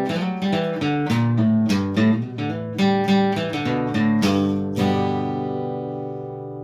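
Acoustic guitar music: a run of strummed chords, ending about five seconds in on a final chord left to ring and fade.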